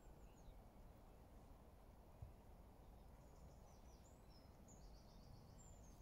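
Near silence outdoors: a faint low background rumble, with distant small birds giving thin high chirps and a quick twittering run in the second half. A soft low thump about two seconds in.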